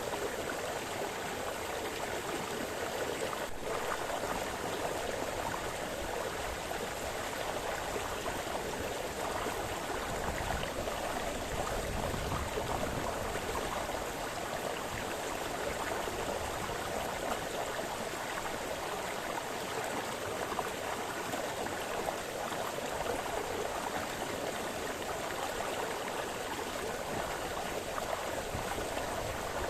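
Small brook splashing and burbling over stones, a steady, even rush of running water.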